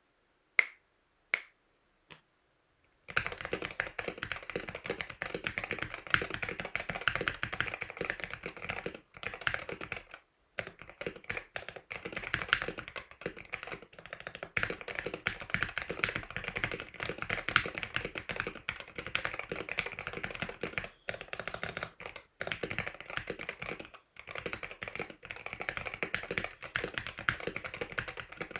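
Typing on a stock Wooting 60HE keyboard with its linear Hall-effect magnetic switches. Three single keystrokes come first, then fast continuous typing starts about three seconds in and runs on with a few short pauses.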